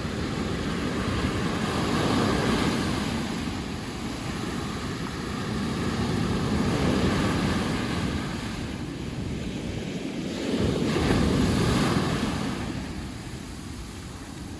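Sea waves breaking on a sandy beach, the surf swelling and falling back three times, with wind buffeting the microphone.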